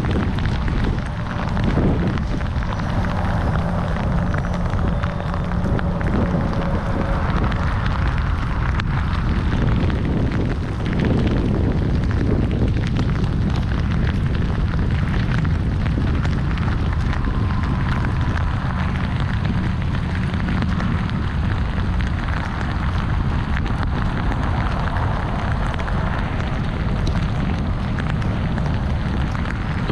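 Loud, steady wind buffeting the microphone, a continuous low rumble with no pauses.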